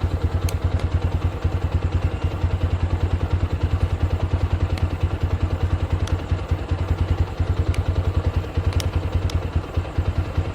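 TVS Apache RTR 160 4V's single-cylinder four-stroke engine idling steadily with an even, rapid putter, and a few faint light ticks.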